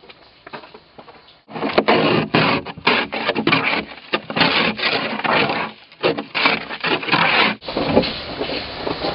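Ice being scraped off a car windshield: a quick, irregular run of rasping strokes. The strokes stop near the end and a steady hiss takes over.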